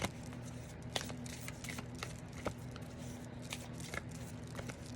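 A deck of oracle cards being shuffled and handled by hand: scattered soft clicks and riffles of card stock, over a faint steady hum.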